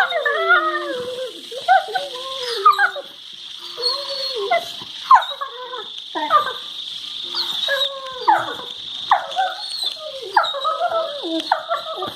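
Labrador retrievers making play noises: a steady run of wavering, howl-like whines and moans that slide up and down in pitch, broken by short yips.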